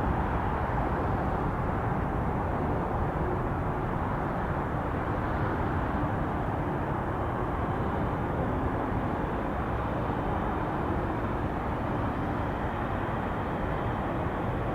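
Steady, even jet engine noise from a Boeing 777 taxiing at low power after landing.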